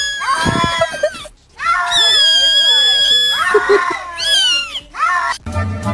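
Loud, high-pitched screams: a run of calls with short gaps, the longest held for more than a second in the middle. Music comes in just before the end.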